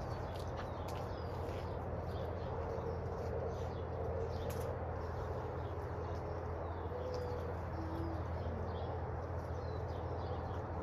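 Backyard bird calls: a few short, low cooing calls and scattered high chirps over a steady low hum.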